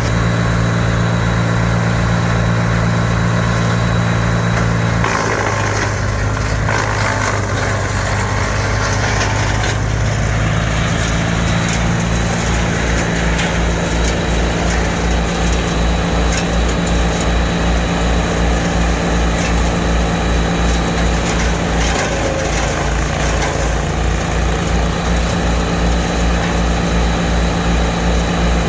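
Small wood chipper's engine running steadily with an even low throb; its note changes about five seconds in and again about two-thirds of the way through.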